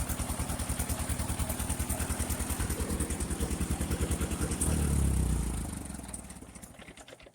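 1958 Ford 851 tractor's four-cylinder engine running with an even, steady beat, swelling briefly in a low rumble about five seconds in, then fading away near the end.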